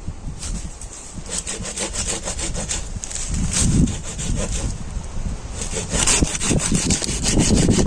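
A saw cutting through dry, dead wood in quick back-and-forth strokes, in two runs with a short pause between them. Wind rumbles on the microphone underneath.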